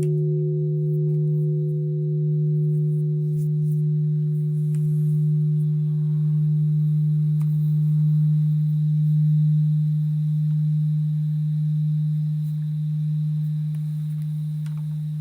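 Japanese temple bell (bonshō) ringing on after a strike: a deep, steady hum that swells and ebbs gently, while its higher tones die away over the first several seconds.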